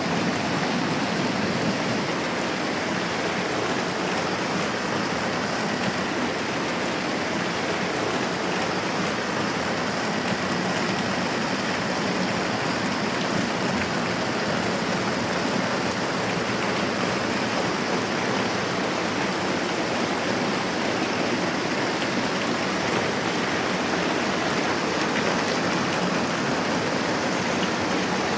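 Moderate rain falling steadily, an even hiss with no change in strength.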